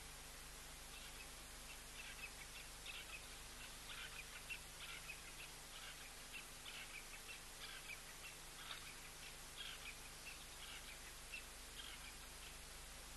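Faint, irregular bird chirps: short high notes repeated from about a second in until near the end, over a steady hiss.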